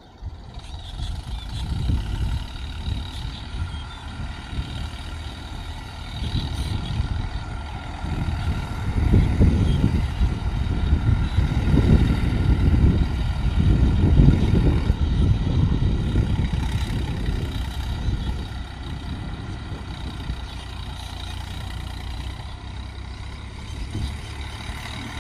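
Farm tractor engine running steadily as it pulls a cultivator through the field, getting louder for several seconds in the middle.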